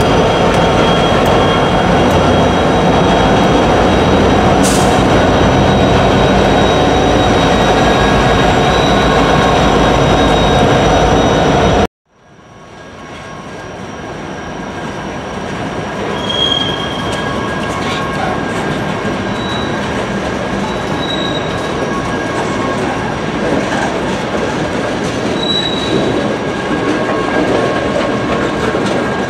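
Real freight train rolling by: a steady rumble of wheels on rail with faint wheel squeal. It cuts off abruptly about twelve seconds in, then a second passing-train sound swells up over a couple of seconds, with clickety-clack and several short, high wheel squeals.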